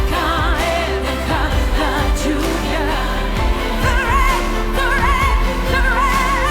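Pop ballad performed live: a female singer holding long notes with wide vibrato over a full band with drums.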